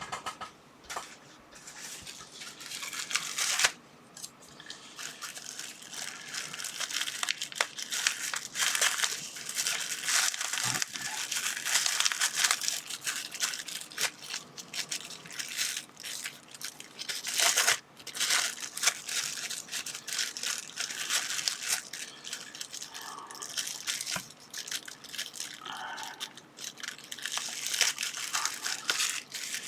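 Plastic packaging crinkling and tearing in irregular bursts as a parcel is unwrapped by hand.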